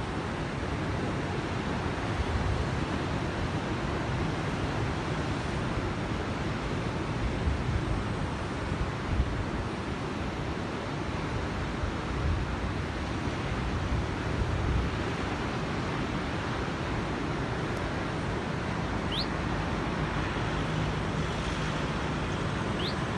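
Steady roar of ocean surf with wind, an even rushing with no distinct crashes. Two faint short rising chirps come near the end.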